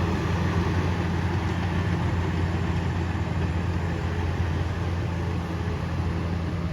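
Komatsu D68ESS crawler bulldozer's diesel engine running steadily at a constant pitch while it drags a heavy log.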